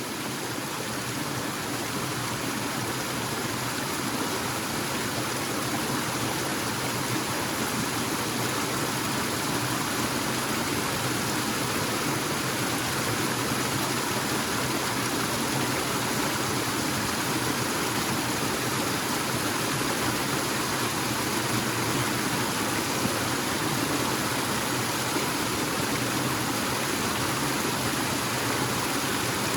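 Waterfall in a forest: steady rushing and splashing of falling water.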